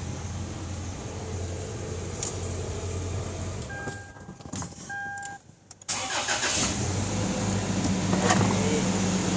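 Toyota Land Cruiser Prado engine running, then cutting out about four seconds in with two short beeps, and catching again at about six seconds to idle steadily. The engine is running again after water was cleared from it, and is taken to be fine now.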